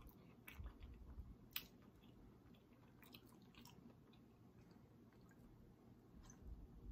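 Faint chewing: a person's mouth making scattered soft wet clicks and smacks over the first few seconds, then near silence.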